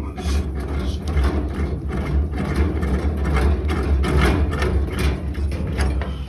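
Hand wrenches turning the boiler's gas pipe fittings: repeated short metallic clicks and scrapes over a steady low hum, which stops at the end.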